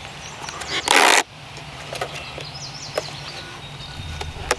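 A brief, loud rustle of plastic food packaging being opened about a second in, followed by a few light clicks, over the low steady drone of an engine.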